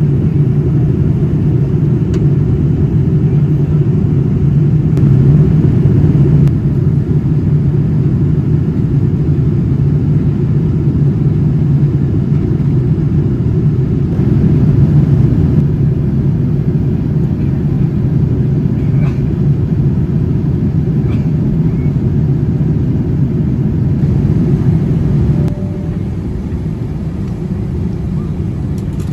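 Steady low rumble of Boeing 787-9 cabin noise in flight, from the engines and airflow over the fuselage. The level drops a step about 25 seconds in.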